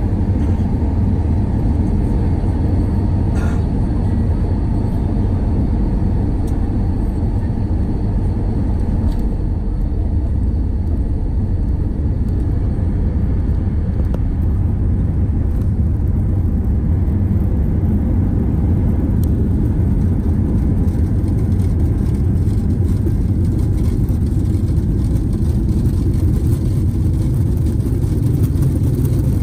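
Steady low rumble of airliner cabin noise, from the jet engines and airflow, heard from inside the passenger cabin during the descent and landing.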